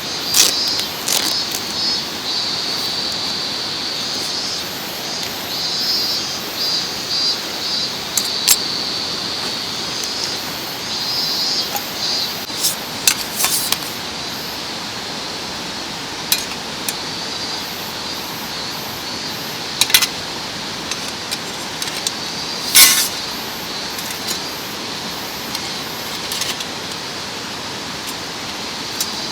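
Steady rush of a mountain stream, with sharp clicks and clinks of gear being handled, the loudest about 23 seconds in. A high pulsing buzz runs through the first half.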